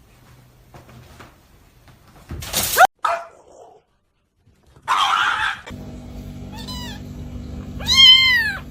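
A cat meowing near the end, first a faint short meow and then a loud, drawn-out one that rises and falls. Earlier come a brief rising cry and a short burst of noise.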